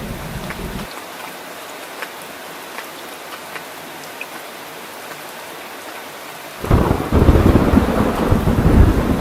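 Steady rain with scattered drop ticks under a thunderstorm. A low rumble of thunder stops abruptly about a second in, and a loud rumble of thunder breaks in suddenly near the end.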